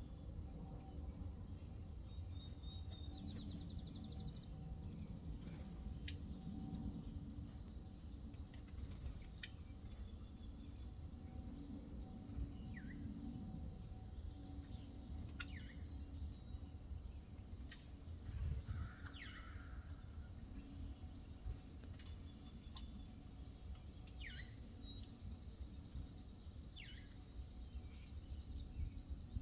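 Wild birds giving short, scattered chirps over a steady high insect drone that grows stronger near the end, with a low background rumble.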